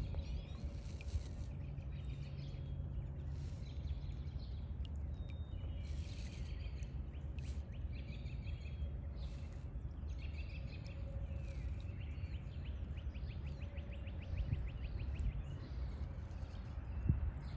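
Small birds chirping, with one fast trill about two-thirds of the way through, over a steady low rumble. A single knock near the end.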